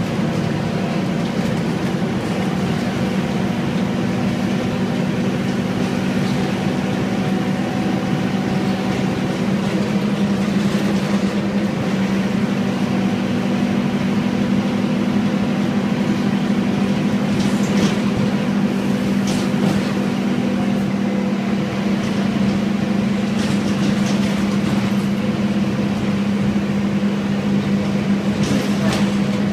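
Scania N230UD double-decker bus's Euro IV nine-litre five-cylinder diesel running steadily, with a few short clicks or rattles in the second half.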